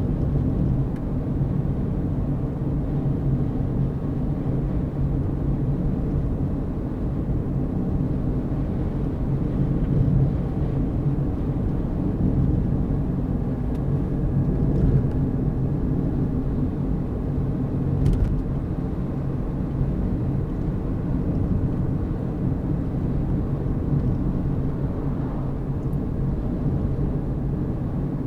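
Car driving at a steady speed, a continuous low engine hum and road noise.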